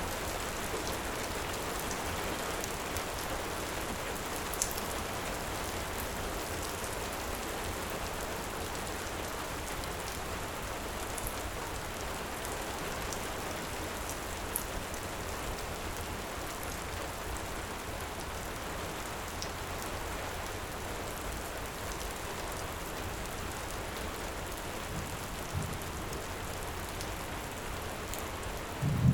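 Heavy rain falling steadily, with a few sharp crackles from a wood fire scattered through it. A short low thump comes right at the end.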